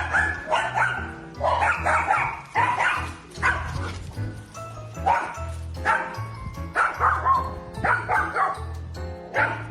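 A dog barking over and over, a bark or two a second, over background music.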